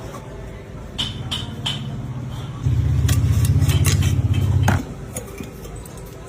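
Refrigerator compressor motor humming: a low hum comes in about a second in and swells to a loud, rapidly pulsing hum for about two seconds before cutting off suddenly. Scattered clicks and knocks sound around it.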